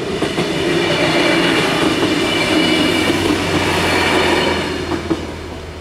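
Alstom Coradia LINT 41 diesel railcar passing over a level crossing. Its engine and wheels swell to their loudest in the first second, hold steady, then fade away after about four and a half seconds, with a sharp click of wheels over the rails near the end.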